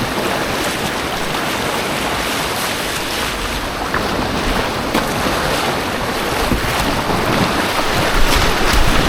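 Rushing white-water rapids around a kayak, a loud, steady rush of water, with wind buffeting the microphone now and then.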